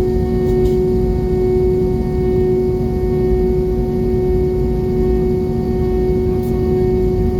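Airbus A320 cabin noise: a steady low rumble with a constant hum from the engines and air systems, and a couple of faint light ticks.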